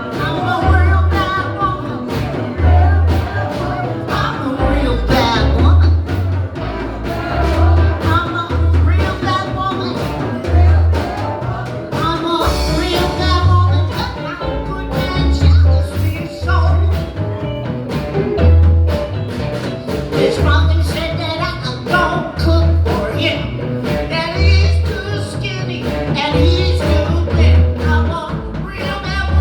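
Live blues band playing a song, with bass notes pulsing in a steady beat under the band.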